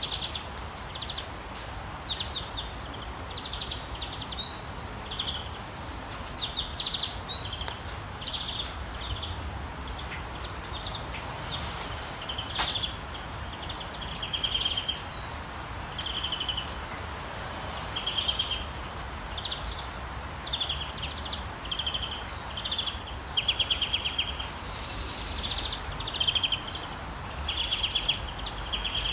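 Several songbirds chirping in short trilled phrases, with some rising whistled notes, over a steady hiss of rain. The calls grow busier and louder toward the end.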